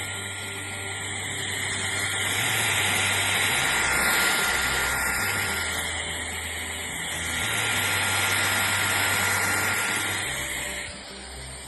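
Shark Detect Clean & Empty cordless vacuum running: rushing air with a steady high tone over it, swelling and fading slowly, then dropping in level near the end.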